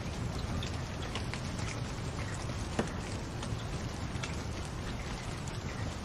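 Wood fire crackling in a fireplace: a steady hiss with scattered small snaps and one louder pop about three seconds in.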